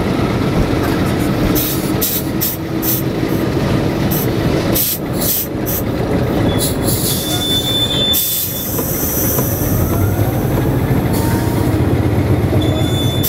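Antonov An-2's nine-cylinder radial engine running, heard inside the cabin as a loud, steady rumble with rattling, and a thin high squeal twice, about seven seconds in and again near the end.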